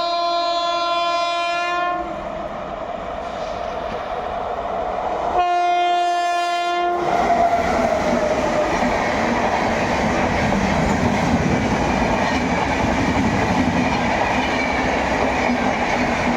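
WAP7 electric locomotive's horn sounding two long blasts, the second dropping in pitch as the locomotive passes. The express's coaches then run by with a steady rumble and wheels clicking over the rail joints.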